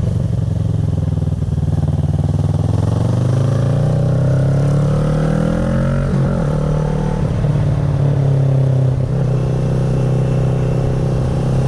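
2010 Kawasaki ER-6n's parallel-twin engine through an SC Project carbon exhaust, its revs climbing for a few seconds. The revs drop sharply about halfway through, then hold steady.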